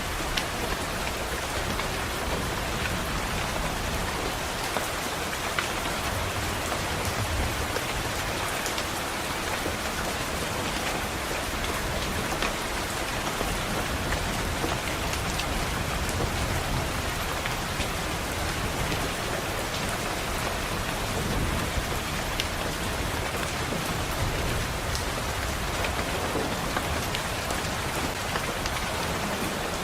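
Steady rainfall on a window: an even hiss of rain with scattered sharp taps of individual drops.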